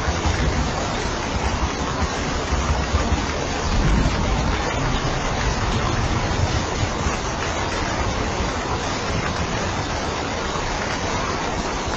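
Steady heavy rain, an even hiss with no let-up. A low rumble swells briefly about a third of the way in.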